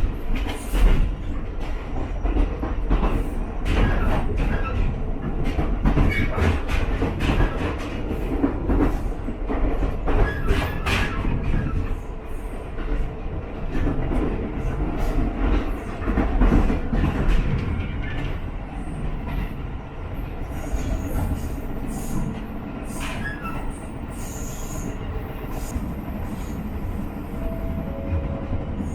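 Ichibata Electric Railway 7000 series railcar running, heard from inside the car: a steady rumble with frequent sharp clicks of the wheels over rail joints. From about two-thirds of the way through the running gets quieter and thin, high wheel squeals come and go.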